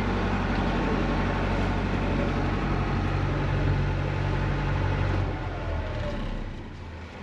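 Boat engine running steadily with a low hum under the wash of wind and water, dropping away about five seconds in as the power comes off.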